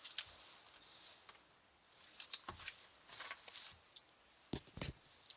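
A pen drawing on paper: several short scratchy strokes with pauses between them, and two sharper taps about four and a half seconds in.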